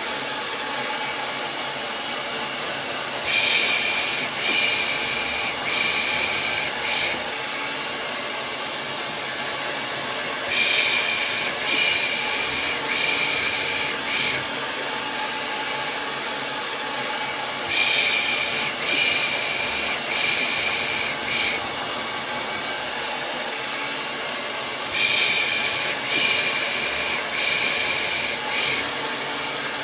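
Hair dryer running steadily under a rhythmic baby-soothing 'pış pış' shush. The shushes come in groups of four, each about a second long, and a new group starts about every seven seconds.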